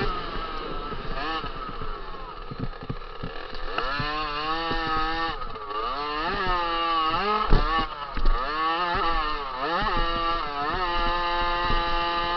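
50cc two-stroke motocross bike engine racing, its pitch climbing and dropping again and again as the throttle opens and shuts. A couple of sharp thumps stand out about eight seconds in.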